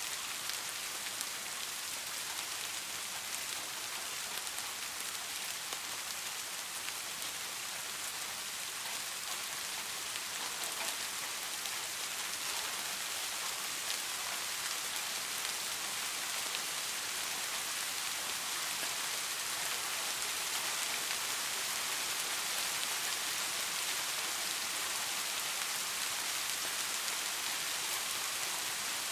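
Steady rain falling, an even hiss of many fine drops pattering on a surface, slightly louder in the second half.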